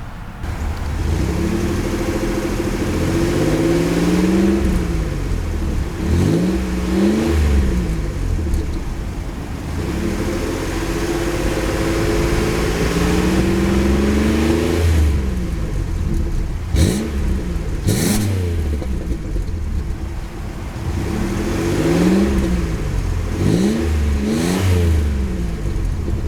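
The Buick Rendezvous's GM 3400 V6 running, its engine speed rising and falling again and again: slow climbs in pitch that drop away, and several quick rises and falls. Two sharp clicks come a little past the middle.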